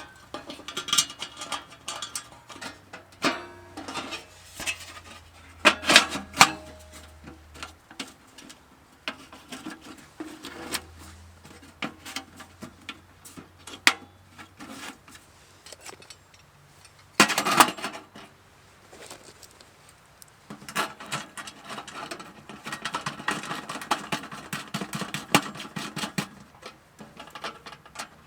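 Irregular clatter, knocks and rustling of camping gear being handled, with a louder clatter about two-thirds of the way through and a busier stretch of handling near the end.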